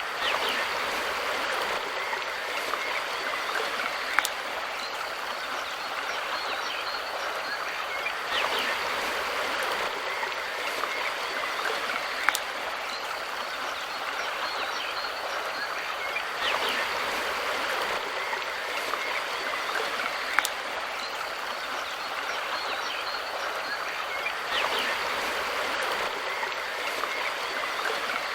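Mountain river water rushing and splashing steadily over stones, with a short sharp click and a slight swell in the rush that come back about every eight seconds.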